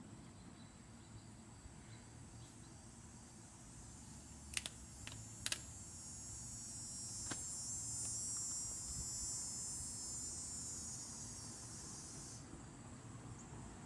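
A high, buzzing insect drone that swells over several seconds and then cuts off suddenly, with a few sharp clicks before it.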